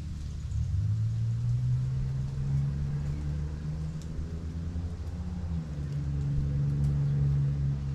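An engine running with a low drone, its pitch rising about a second in and shifting again about halfway through.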